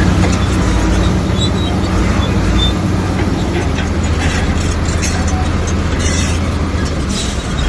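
Komatsu bulldozer's diesel engine running steadily under load, with short high squeaks and clanks over the drone.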